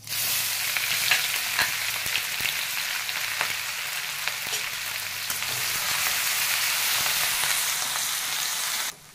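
Ginger-garlic-chilli paste sizzling steadily as it fries in hot mustard oil with cumin seeds in a kadhai, with a few scrapes of a metal spatula stirring it. The sizzle starts the instant the paste hits the oil and cuts off abruptly near the end.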